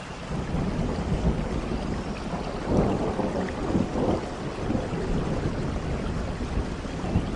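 Steady rain falling in a forest, with a low rumble of thunder that swells about half a second in and rolls on underneath.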